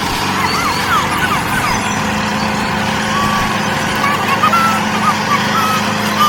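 A small motor running steadily, with many short bird chirps over it.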